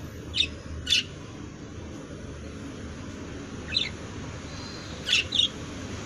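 Birds giving short, sharp chirps: two near the start, one a little past halfway, and a quick pair near the end.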